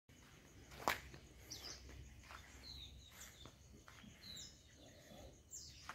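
Faint outdoor background with scattered short bird chirps, and one sharp click about a second in.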